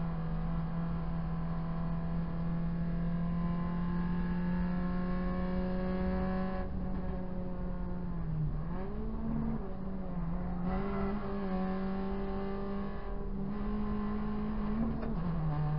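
Proton Saga race car's four-cylinder engine heard from inside the cabin under load, its note climbing slowly as it pulls. About eight seconds in the revs dip and then jump higher, settle, pull again, and fall near the end.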